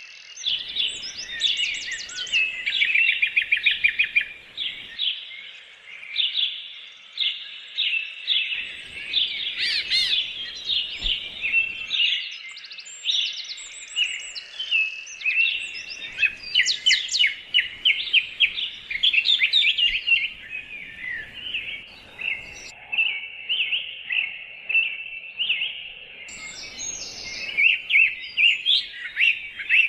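Birds chirping and trilling busily and without pause, many short rapid notes overlapping. The faint background shifts abruptly several times.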